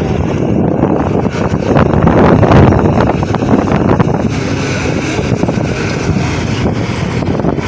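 Farm tractor engine running loud and steady under load, with wind buffeting the microphone.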